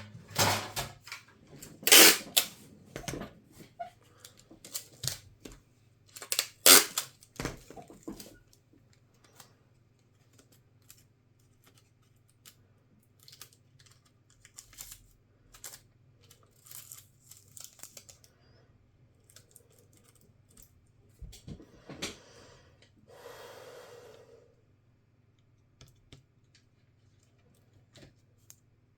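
Clicks, taps and knocks of laptop parts being handled and fitted. They are loudest and densest in the first eight seconds, then thin out to fainter ticks, with a short scraping rustle about three-quarters of the way through, over a faint steady hum.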